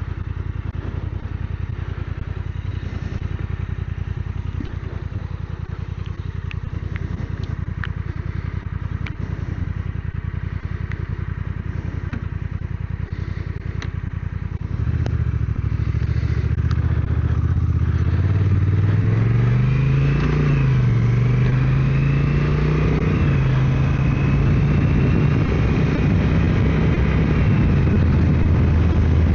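Motorcycle engine idling, then about halfway through pulling away and accelerating. Its pitch rises, drops briefly at a gear change and rises again before settling into steady cruising.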